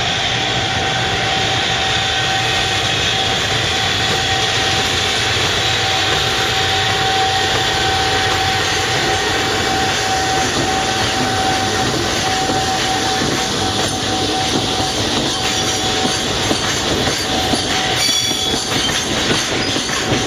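A freight train rolling past with a steady rumble of its wagons and a sustained high tone like wheel squeal. Near the end come quick clicks of wheels over rail joints.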